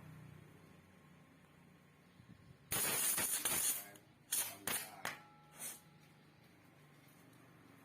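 Hissing spray bursts: one long hiss of about a second, then three short ones, over a low steady hum.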